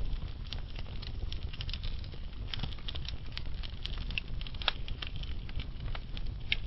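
Log fire burning slowly, crackling with irregular sharp pops and snaps over a steady low rumble of the flames.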